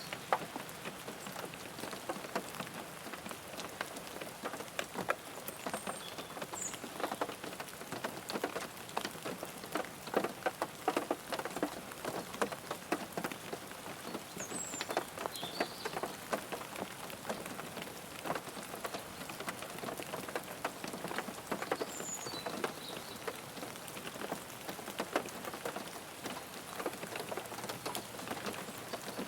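Rain falling on a car roof, heard from inside the car: a steady hiss thick with individual drop ticks. A few faint, short high chirps come through now and then.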